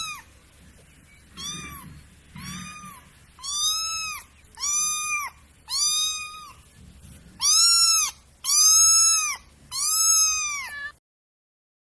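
A cat meowing repeatedly: about nine short, high-pitched meows, each rising and falling in pitch, growing louder through the run.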